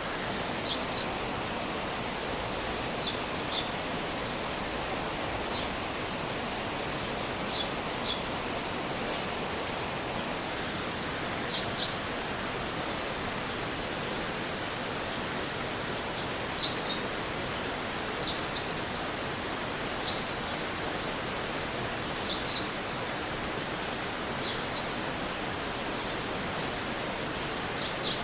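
Flowing stream water with a steady rushing sound, with short high chirps every couple of seconds over it.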